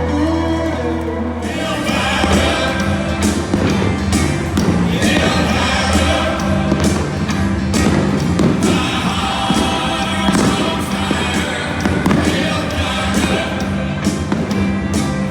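Music with singing playing over a ballpark's loudspeakers, with fireworks bursts banging again and again over it.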